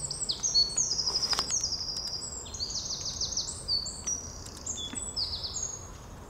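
Small songbirds singing and chirping: rapid high-pitched notes and short trills from several birds overlapping, busiest in the first four seconds and thinning after.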